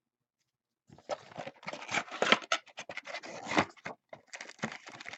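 Trading-card box packaging being torn open and handled: dense crinkling and scratching with sharp crackles, starting about a second in.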